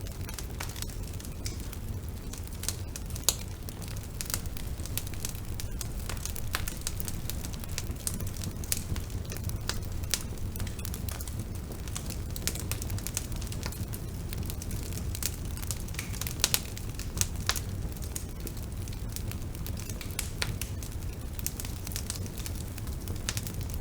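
Bonfire burning: a steady low rumble of flames with irregular sharp crackles and pops of burning wood.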